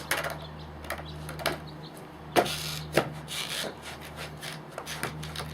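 Skateboard attempting an ollie: a sharp tail pop and a second hard clack about half a second later as the board lands, with wheels rolling in between and lighter board knocks before it.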